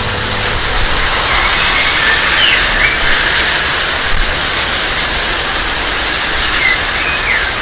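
Steady, heavy rain falling, a dense even hiss, with a few faint short high chirps over it.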